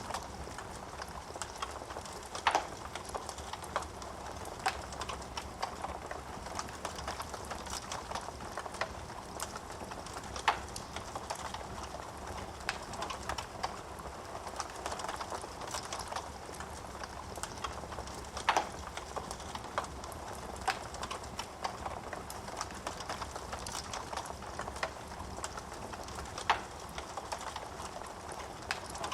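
Wood fire burning in a fireplace: a steady soft hiss of flames under irregular crackling of burning wood, with a few sharper, louder pops several seconds apart.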